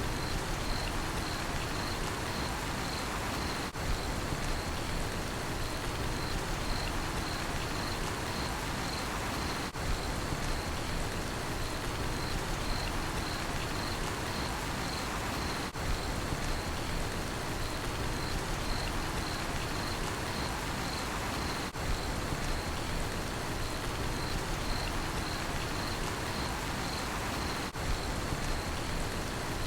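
Steady rain falling, with a cricket chirping high above it in a fast, even pulse. The rain briefly dips about every six seconds.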